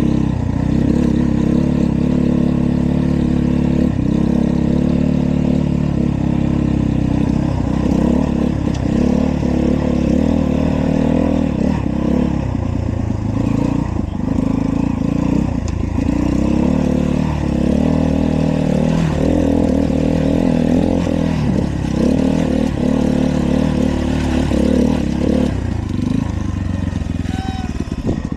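Dirt bike engine running hard, its pitch climbing and dropping every few seconds as the throttle is worked.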